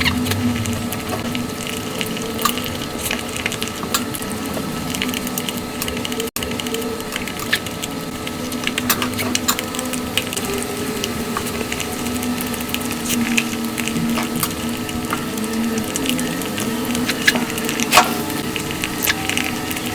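Close-miked eating sounds of cake and sweets sped up five times: chewing, smacking and mouth clicks run together into a dense, rapid clicking, with a brief cut about six seconds in.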